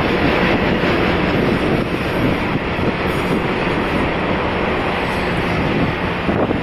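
Union Pacific intermodal freight train rolling steadily past, its cars loaded with highway trailers: a continuous noise of steel wheels on rail.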